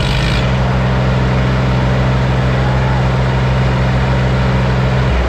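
Tractor diesel engines working hard under heavy load in a tug-of-war pull. After revving up they hold a steady high pitch, and one tone drops away near the end.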